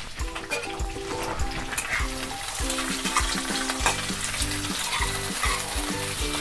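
Chopped onions, tomatoes and peanuts sizzling in hot oil in a kadai, stirred with a spatula that knocks and scrapes against the pan, over background music with a steady beat.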